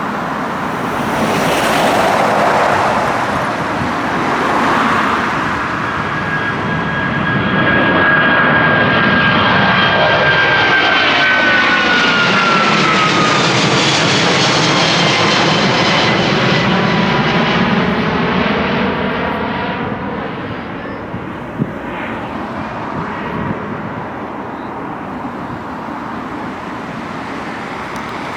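Widebody jet airliner climbing out at takeoff power and passing low overhead. Its roar builds to a peak around the middle, and the engines' high whine drops in pitch as it goes by. The roar then fades away.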